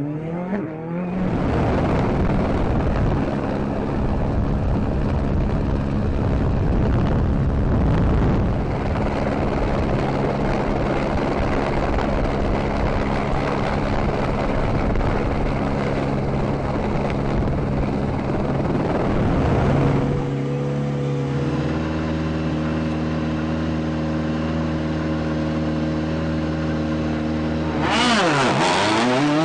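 Rally car engine running at steady revs. About two-thirds of the way in it settles to a steadier, cleaner note, and near the end the revs dip and then climb sharply.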